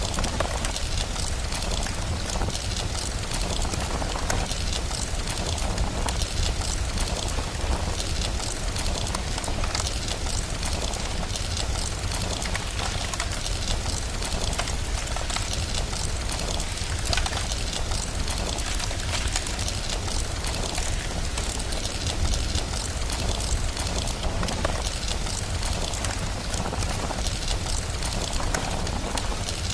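Steady rain with a continuous low rumble underneath, mixed with the crackling of a wood fire: many small sharp crackles scattered throughout.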